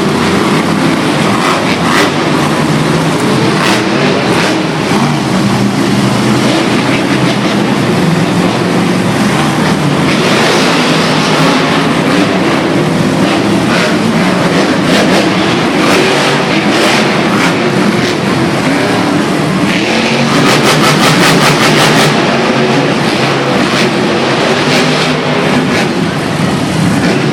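Truck engines running loud and steady, with some revving.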